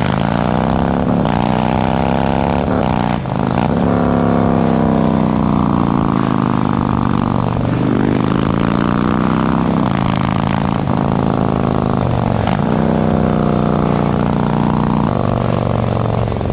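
Harley-Davidson Milwaukee-Eight V-twin running through an S&S Sidewinder 2-into-1 exhaust, accelerating hard through the gears. The pitch climbs, then drops back at each of several upshifts.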